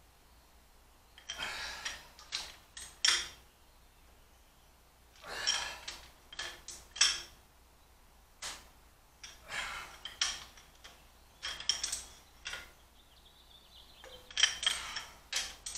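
Hand ratchet wrench clicking in about six short bursts with pauses between, as the cylinder head bolts on a Ford small-block V8 are loosened before being re-torqued to an even 90 ft-lb.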